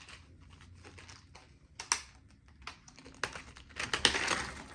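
Hands handling plastic lure packaging: scattered small clicks and crinkles, with a short flurry of rustling about four seconds in.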